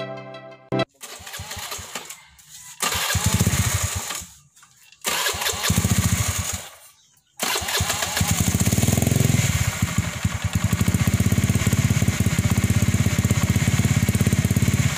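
Honda Beat scooter engine running through a hollowed-out muffler, heard in three short stretches broken by silences, then running steadily from about seven seconds in.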